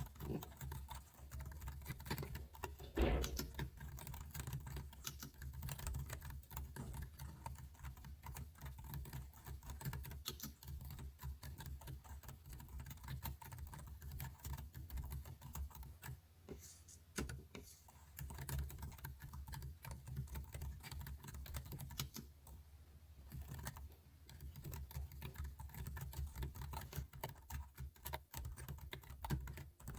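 Computer keyboard typing: steady, irregular clicking of keys, with one louder knock about three seconds in.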